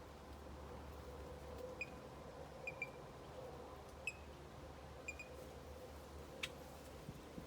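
A bird giving short, high chirps, about six of them over a few seconds, some in quick pairs. A single sharp click sounds near the end.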